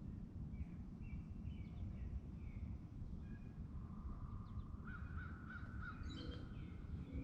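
Songbirds chirping in short calls over a steady low rumble, with a longer, wavering lower-pitched bird call from about four to six seconds in.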